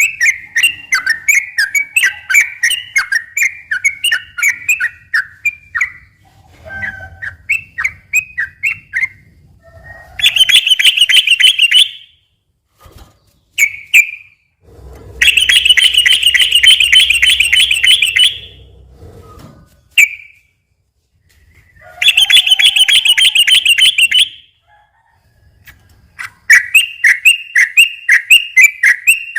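Sooty-headed bulbul (trucukan) singing: loud chattering phrases, then three long rapid rolling trills ("ropel panjang") a few seconds apart, before the chattering resumes near the end.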